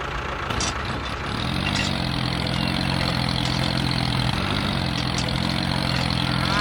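An engine running steadily over a noisy rattle. Its pitch steps up about a second and a half in and dips briefly near the middle.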